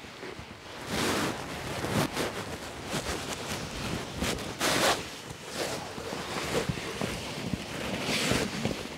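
Irregular rustling and scuffing while walking, with wind on the microphone.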